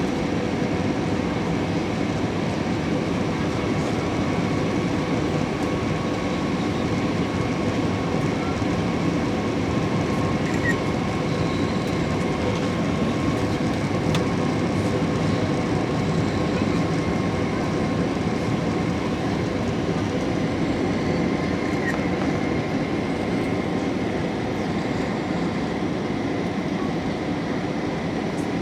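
Steady airliner cabin noise on the approach to landing: an even rush of engine and airflow noise with a few faint steady tones running through it.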